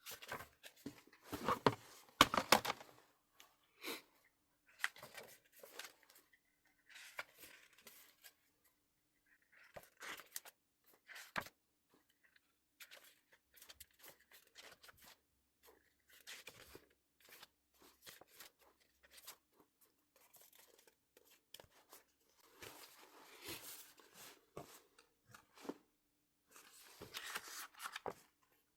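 Album packaging being handled and torn open: bursts of paper and plastic rustling and tearing, loudest a couple of seconds in, with quieter rustles in between and another busy stretch near the end.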